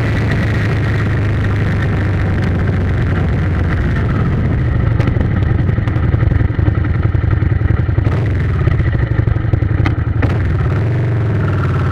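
A motor vehicle's engine running steadily, with a rougher, slightly louder rattling stretch from about five to ten seconds in and a few sharp clicks.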